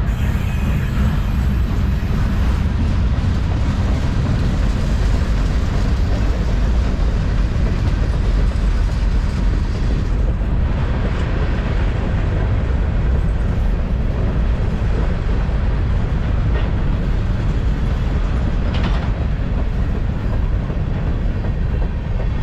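Railcars of a long mixed freight train rolling past on the track: a loud, steady rumble of steel wheels on rail.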